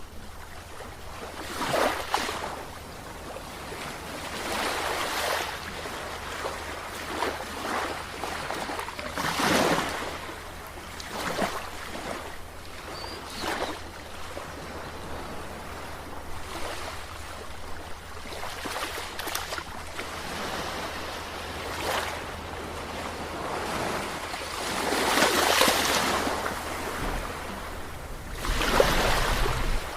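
Ocean surf: waves washing in, swelling and falling back every few seconds, with the biggest surges near the end.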